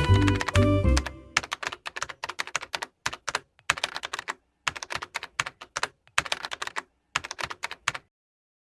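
Keys clacking as in typing on a computer keyboard: rapid clicks in quick bursts with short pauses between them. Jazz music cuts out about a second in, before the clicking starts.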